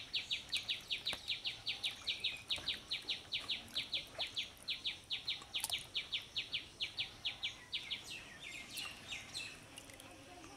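A bird calling a long run of short, high, identical notes, about five a second, that breaks up into a few scattered notes near the end.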